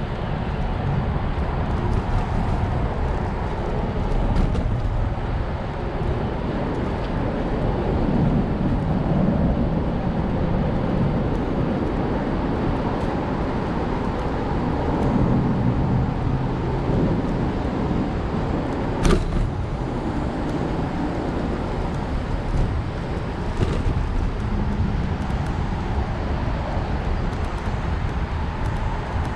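Steady rumble of wind and road noise while riding an electric bike, swelling and easing at times, with one sharp click about two-thirds of the way through.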